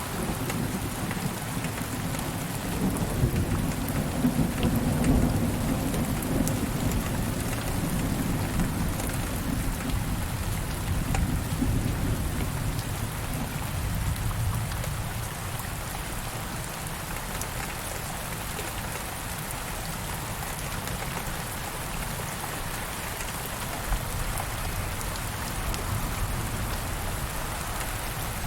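Steady rain falling, with a long roll of distant thunder that swells in the first few seconds, peaks around five seconds in and fades away by about the middle.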